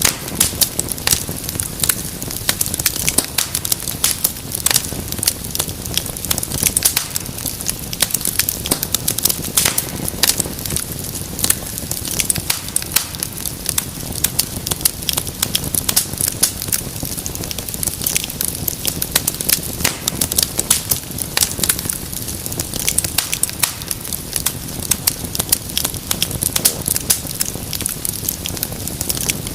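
Wood fire in a fireplace burning steadily, with many quick, irregular crackles and pops over a soft rushing hiss.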